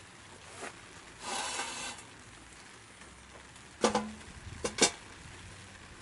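Camp gear being handled: a brief scraping rub about a second in, then three sharp knocks or clinks near the end, the first with a short ring.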